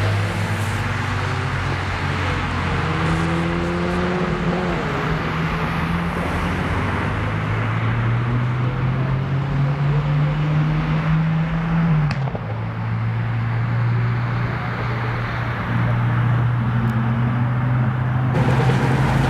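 Tuned car's engine running at low revs with a steady drone. Its pitch climbs slowly for a few seconds, drops suddenly about twelve seconds in, then holds steady.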